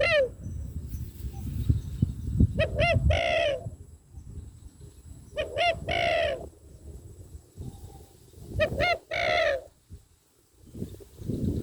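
White-breasted waterhen (ruak-ruak) calling over and over, a short croaking note followed by a longer, slightly falling one, repeated about every three seconds. A low rumbling noise runs underneath.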